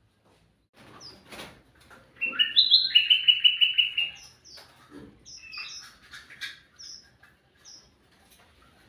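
Kutilang mas bulbul singing: a loud, rapid run of chattering notes starting about two seconds in and lasting about two seconds, followed by scattered short, high chirps. A couple of brief knocks are heard, one before the run and one after it.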